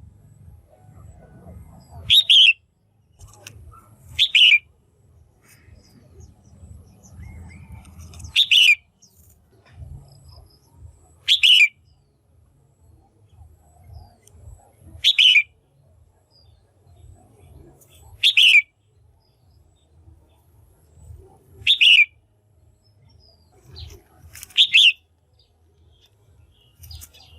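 Female red-whiskered bulbul giving short, sharp calls, eight in all, spaced about three seconds apart. This is the kind of loud female call used to excite male bulbuls or to lure one for pairing.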